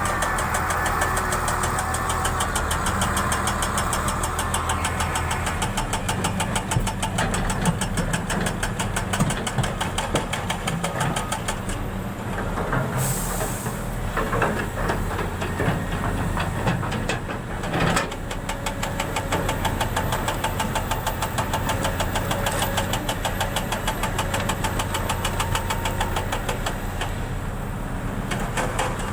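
An engine running steadily, with a fast, even ticking throughout and two brief bursts of noise, the second about five seconds after the first.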